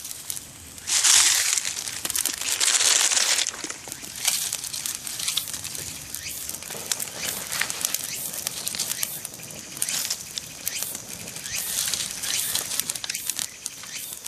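Small bonfire of dry kindling crackling, with many sharp snaps and two louder rustling swells in the first few seconds.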